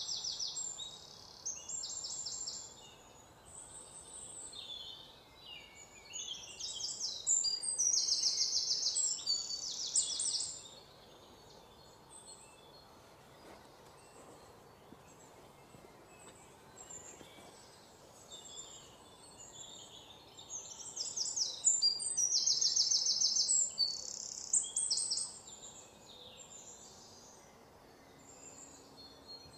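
Birdsong ambience: small birds singing in bursts of fast, high trills, with quieter stretches between the loudest spells.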